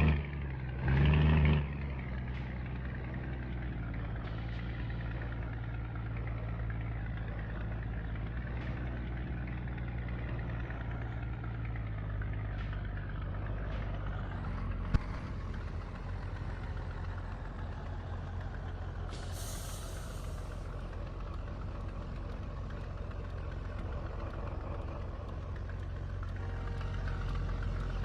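Scania truck's diesel engine running steadily, with a short loud burst about a second in. A sharp hiss of released air, typical of the air brakes, sounds for about a second and a half near the middle.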